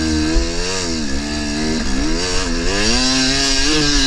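KTM 300 two-stroke dirt bike engine revving up and down several times under riding load, the pitch rising and dipping repeatedly.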